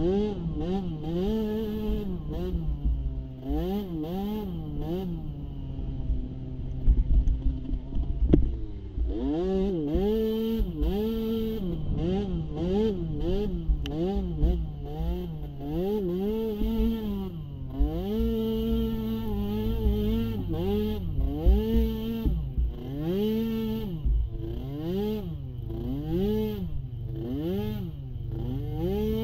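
Small youth ATV engine revving up and falling back about once a second as it is ridden, its pitch holding steadier for a couple of seconds about six seconds in. A sharp knock sounds about eight seconds in, over a constant low rumble.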